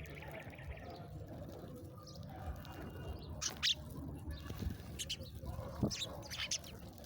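Small birds giving short, high chirps now and then, a few of them past the middle and near the end, over steady low background noise.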